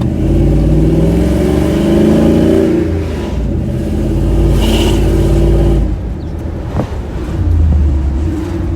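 454 big-block V8 truck engine revving for several seconds, pitch rising and falling, then dropping back, with one more short rev near the end. It runs smoothly with no popping: the exhaust leak at the headers has been sealed by fitting a missing header bolt.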